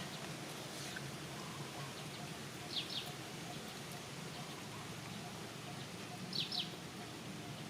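A bird gives two short high double chirps, about three and six and a half seconds in, over steady outdoor background noise.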